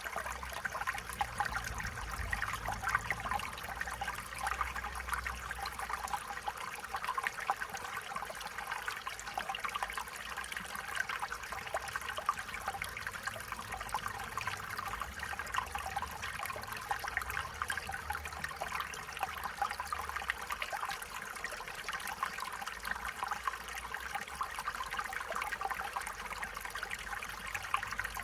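Stream water running and trickling steadily, a continuous babble of small splashes over a faint low rumble.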